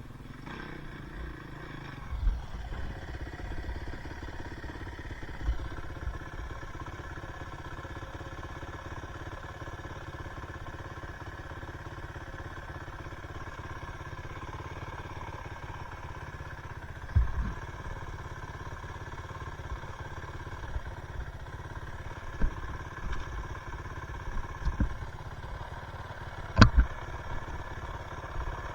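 Two-stroke dirt bike engine idling steadily at a constant pitch, with a few knocks and thumps, the loudest near the end.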